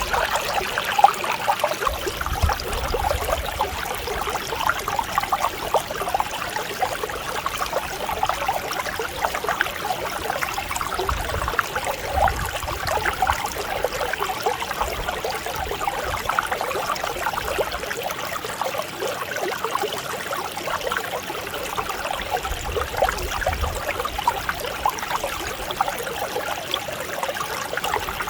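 Mountain stream flowing with a steady, continuous babble and trickle.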